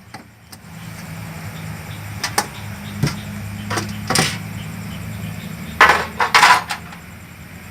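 Sharp knocks and clatter of refrigerator panels and parts being handled and pried apart during disassembly. A few scattered knocks lead up to a louder cluster about six seconds in, over a steady low hum.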